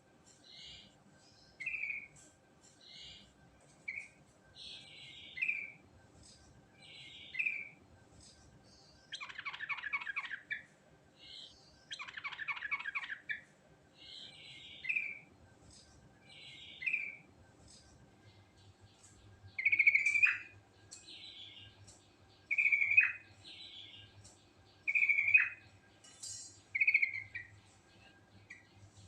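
Yellow-vented bulbul (trucukan) singing: short bubbly two-note phrases repeated about every two seconds, broken by two longer rapid chattering bursts about a third of the way in. In the second half the phrases get louder and end in quick downward sweeps.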